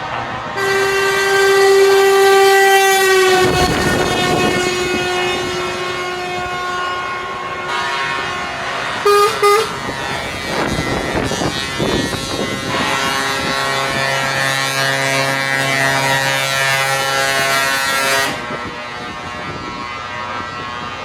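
Truck air horns sounding in turn. First a long, loud horn blast whose pitch drops slightly, then two short toots, then a lower horn with several notes at once held for about five seconds.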